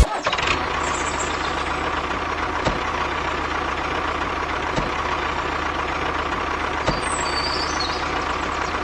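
A vehicle engine running steadily at an even pitch, with a few faint ticks and a brief high chirp about seven seconds in.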